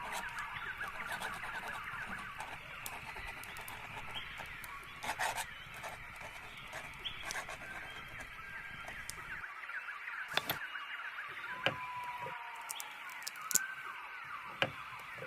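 Layered cabin ambience: a quill pen scratching on paper in quick short strokes, with long whistled bird calls at the start and again near the end, and scattered sharp clicks in the second half.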